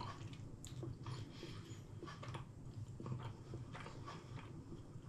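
Person chewing a mouthful of seeded bread, with irregular soft crunches and mouth clicks.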